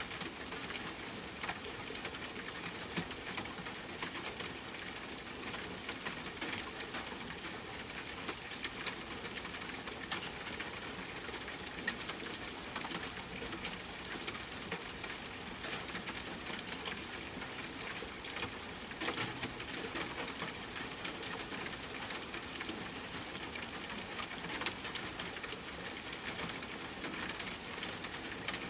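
Steady rain, with many separate drops ticking on a hard surface over an even hiss.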